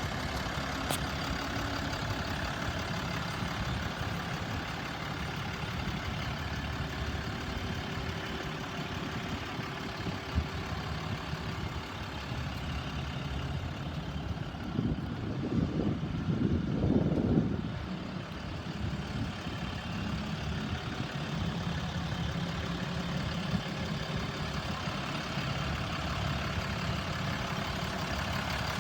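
2016 RAM 4500 dump truck's 6.7-litre Cummins turbo-diesel straight-six idling steadily, with a louder stretch of about three seconds just past halfway.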